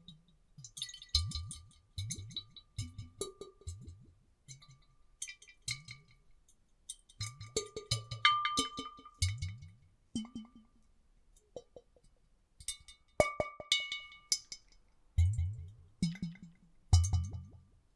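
Water sloshing and glugging inside glass bottles: irregular bursts of bubbling clicks and gurgles about once a second, with a couple of short pauses.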